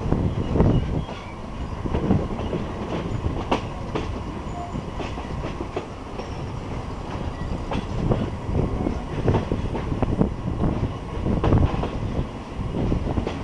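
State Railway of Thailand passenger train running along the track: a steady rumble with the wheels clicking over rail joints at irregular intervals.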